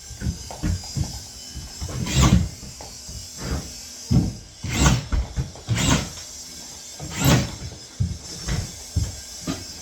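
Irregular knocks and thuds of drywall work, with a few short scraping sounds as panels or pieces are handled and fitted.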